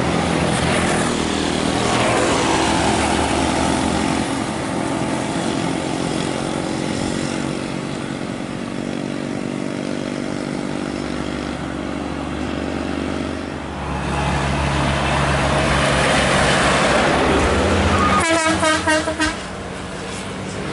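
Heavy road vehicles (trucks and buses) passing close by, with engines running and tyre noise swelling as one goes by. Near the end a multi-tone vehicle horn sounds for about a second in a fast warbling series.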